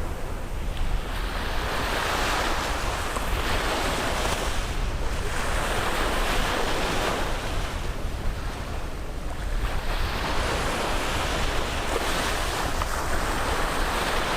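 Caribbean sea surf washing onto the beach, the hiss swelling and easing in about three surges as waves break and run up the shore. A steady low rumble of wind on the microphone runs underneath.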